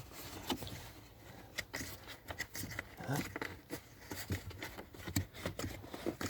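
Scattered small clicks, taps and rustles at irregular intervals, typical of handling and moving around by hand.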